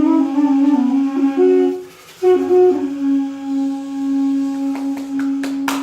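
Duduk-family double-reed woodwinds (balaban) playing: one holds a steady drone while the other plays a melody above it, breaking off briefly about two seconds in, then the two settle on a long held closing note. Applause starts near the end.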